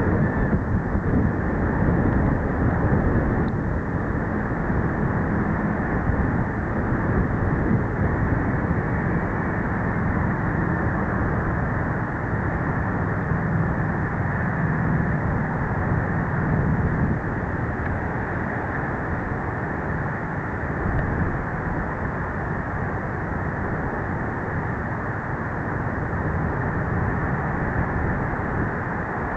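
Steady rushing roar of an Embraer ERJ regional jet landing in a gusty crosswind, jet and wind noise together, easing a little after the middle.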